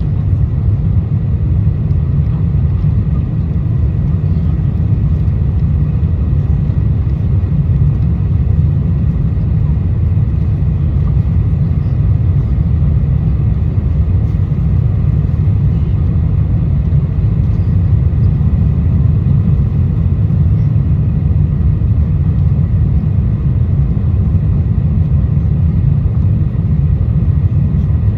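Cabin noise of a four-engined Boeing 747-400 climbing out after takeoff: a loud, steady, deep rumble of engines and airflow with a faint steady whine above it.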